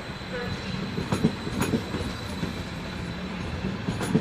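Train moving slowly through a station, a steady low running hum with a few sharp wheel clacks over rail joints or points.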